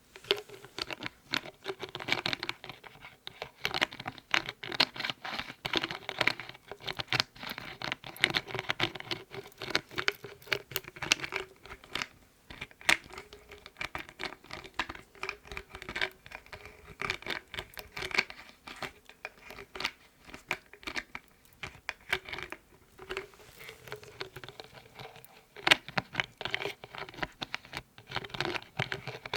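Lids being tapped, scratched and handled, making a quick, irregular run of small clicks and scrapes, with a sharper louder click near the end.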